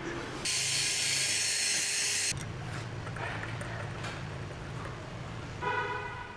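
An aerosol spray can hissing in one burst of about two seconds, sprayed onto the rusty brake disc, over a low steady hum from the workshop. A brief squeal follows near the end.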